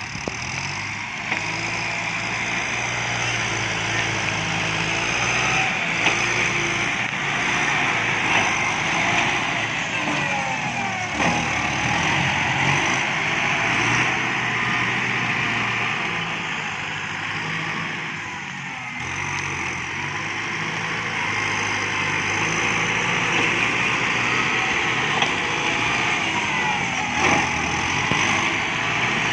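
Kubota MU5702 diesel tractor engine running under working load, its revs rising and falling a few times.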